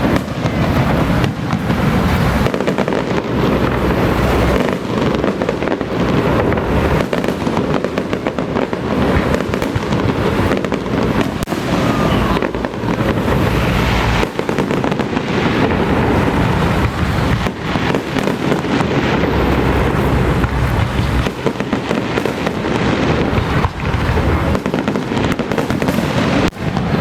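Electronically fired fireworks barrage: a dense, continuous crackle of rapid overlapping bangs, with only brief lulls.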